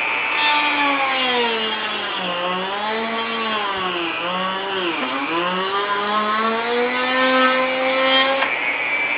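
Dremel rotary tool drilling a small hole through a basswood block. Its whine sags in pitch several times as the bit bites into the wood and recovers, then cuts off near the end.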